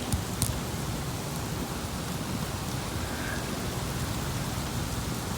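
Rain falling steadily in a thunderstorm, with a couple of sharp drip ticks in the first half second.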